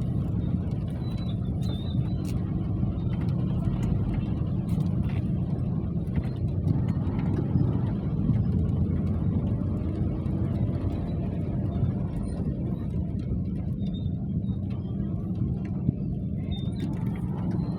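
Rain falling steadily: a constant low rumbling wash with scattered sharp ticks of drops striking.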